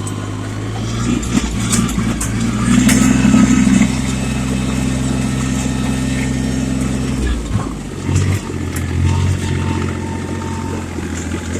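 Yanmar tractor's diesel engine running steadily as the tractor drives, with scattered rattles and knocks; the engine note changes about seven seconds in.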